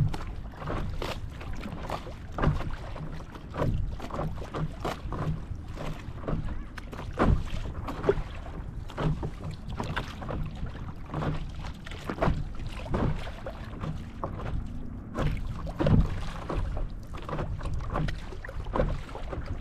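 Choppy lake water slapping and splashing against a paddle board, in irregular splashes, with paddle strokes in the water.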